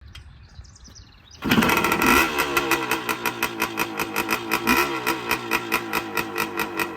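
Happy Run electric dirt bike under way: the motor and drivetrain start abruptly about a second and a half in, then run loud with a wavering pitch and a rapid regular pulsing, about five a second.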